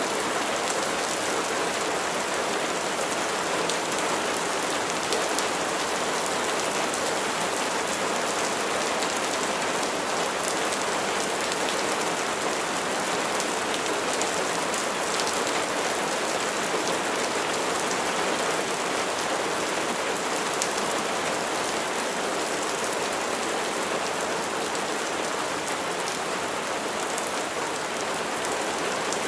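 Steady rain falling on a surface: a constant, even hiss of drops with fine ticks of individual raindrops.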